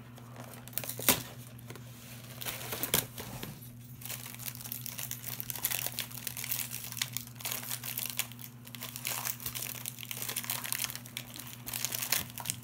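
Packaging of honey graham crackers being torn open and handled: two sharp snaps in the first few seconds, then steady crinkling and rustling.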